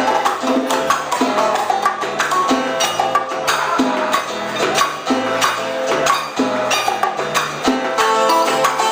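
Live Cuban band playing an instrumental passage: a steady rhythm of sharp hand-percussion strikes over a bass line and pitched instruments.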